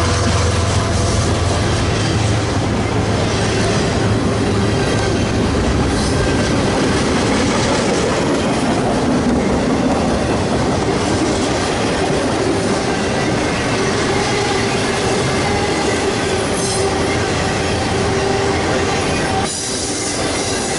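Freight train cars rolling past at close range: continuous rail noise with a steady wheel squeal and clacking over rail joints, and a low locomotive rumble in the first few seconds that fades.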